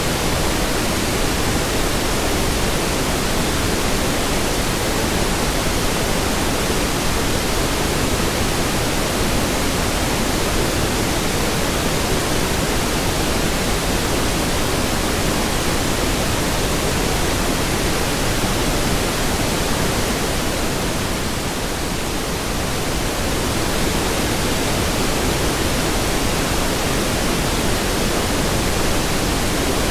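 Steady pink noise: an even, continuous hiss across the whole range, heavier in the lows. It grows briefly a little softer and duller about two-thirds of the way through, then returns to its full level.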